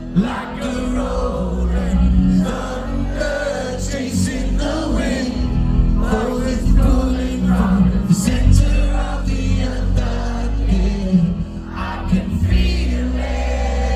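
Live rock music: singing over band accompaniment with a strong, steady bass.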